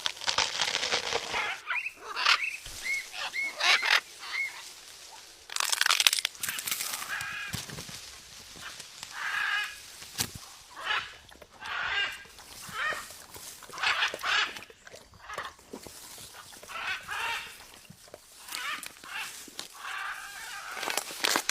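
Birds calling over and over in short pitched calls, a few of them falling in pitch, with a couple of louder bursts of noise near the start and about six seconds in.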